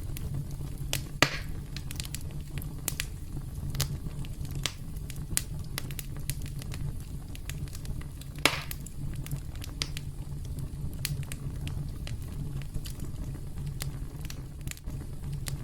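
Campfire crackling: a steady low rumble of burning wood under frequent small pops and snaps, with two louder pops, about a second in and again about eight and a half seconds in.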